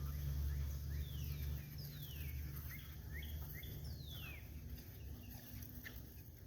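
Birds calling in the background: several whistled notes that slide downward, and a few short rising chirps, over a low rumble that is strongest in the first second or two.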